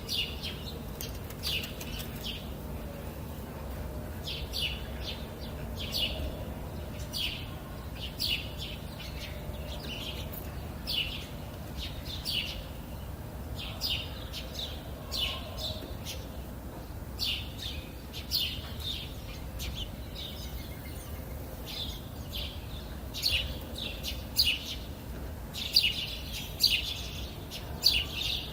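Songbirds chirping in short, high calls, scattered and overlapping, growing busier in the last few seconds, over a low steady background rumble.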